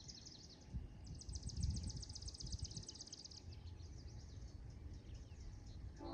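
A songbird's fast, high trill of rapidly repeated notes, starting about a second in and lasting two to three seconds, over a faint low rumble of outdoor background noise.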